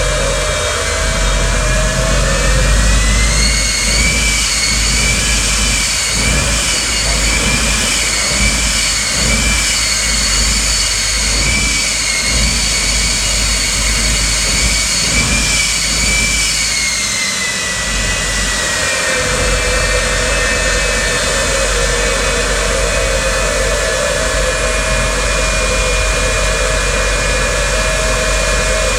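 Jet engine of a jet-powered Kenworth semi truck running loud, with a deep rumble under a high turbine whine. The whine climbs a few seconds in, wavers while it holds high, drops about seventeen seconds in, and then runs steady at a lower pitch.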